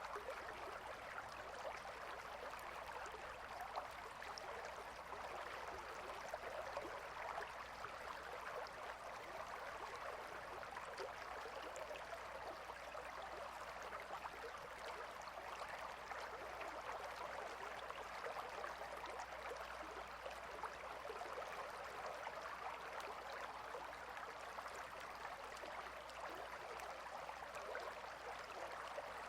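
Gentle river water flowing steadily over stones, a continuous soft babbling rush with fine splashy flicker and no change in strength.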